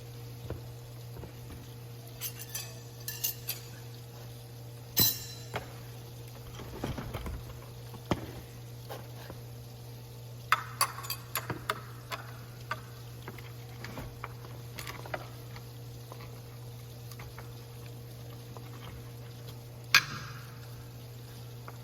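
Scattered light clinks and knocks of small hard objects over a steady low hum, with a sharper knock near the end.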